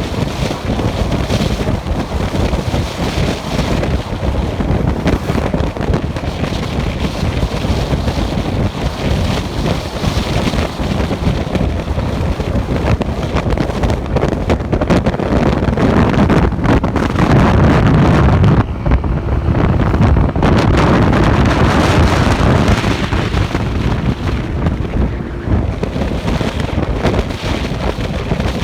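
Heavy wind buffeting on the microphone of a riding motorcycle, with road and engine noise blended underneath; it swells louder for several seconds past the middle.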